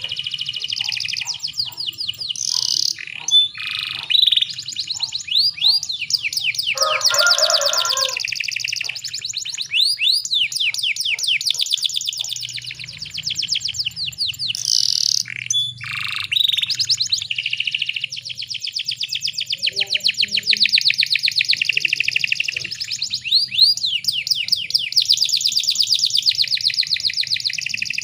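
Canary, presented as a female in breeding condition calling to males, singing long rapid trills and rolls of high chirping notes with only brief pauses. A faint low hum runs underneath.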